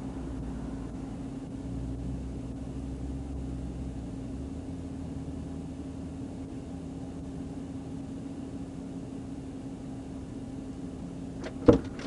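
Steady hum of a vehicle heard from inside its cabin, with a deeper rumble that fades out about four seconds in. Near the end comes one sharp knock or click, the loudest sound here.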